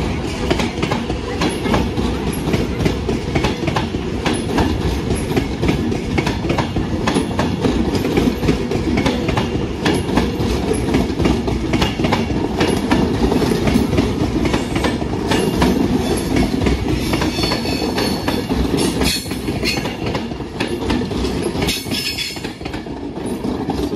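Avanti West Coast Class 390 Pendolino electric train passing close by: a steady rumble of wheels on rail with rapid clicks as the bogies run over joints and points, the level dipping as the last car goes by near the end.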